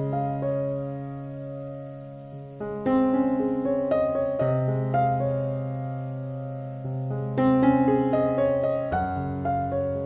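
Slow background piano music: chords and single notes struck every second or so, each left to ring and fade away.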